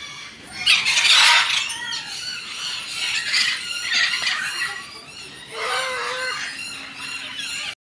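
Parrots screeching in repeated harsh, shrill bursts.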